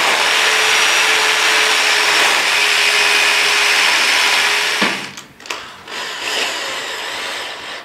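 Power tool running at a steady pitch during gas pipe installation work, cutting off abruptly about five seconds in, followed by a few light knocks and clicks.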